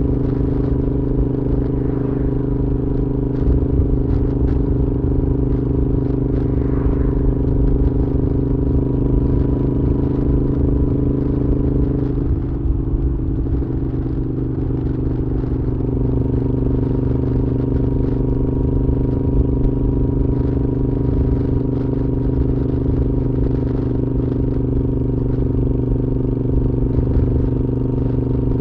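Moto Guzzi V7's air-cooled transverse V-twin running through a Mistral exhaust at a steady cruise, the engine note holding almost level, easing slightly for a few seconds midway before settling back.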